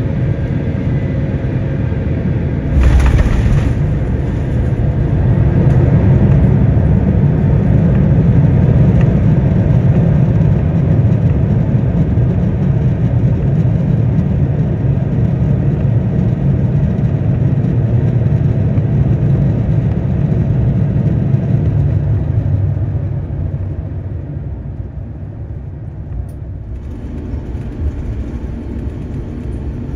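Airbus A350-900 landing heard from inside the cabin: a sudden thud about three seconds in as the wheels touch down, then the deep rumble of the Rolls-Royce Trent XWB engines in reverse thrust and the rollout swells and holds loud, easing off after about twenty seconds as the aircraft slows.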